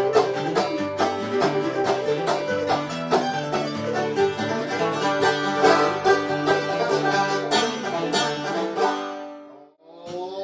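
Instrumental bluegrass music with a rapidly picked banjo over guitar backing, fading out near the end.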